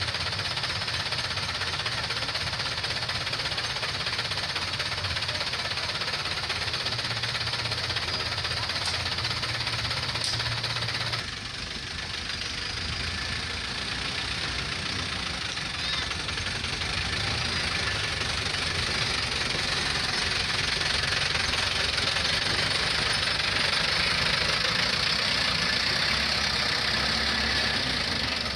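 Toyota Dyna dump truck's diesel engine running. The sound drops off abruptly about eleven seconds in, then grows gradually louder.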